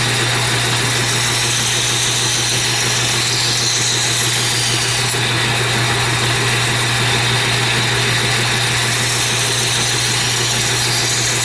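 Belt grinder running steadily at slow speed while a steel straight-razor blade is ground against a 120-grit abrasive belt, a motor hum under an even grinding hiss.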